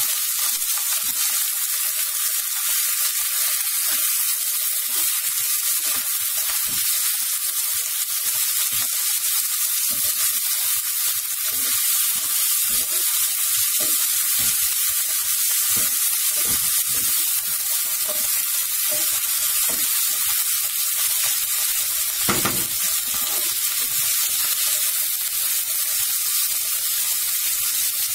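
Chicken pieces frying in hot oil with browned onion and garlic in a granite-coated frying pan, a steady sizzle throughout. From about a third of the way in, a spatula stirring the pieces adds quick scrapes and clicks, with one sharper knock near the end.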